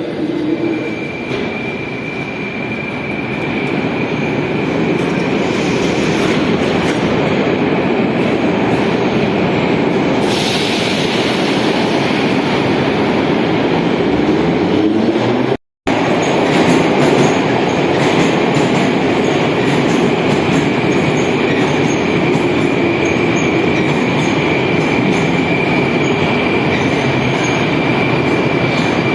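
Moscow metro train running on the rails: a steady, loud rumble of wheels and car noise, with a thin high wheel squeal held through long stretches. The sound drops out for an instant about halfway through.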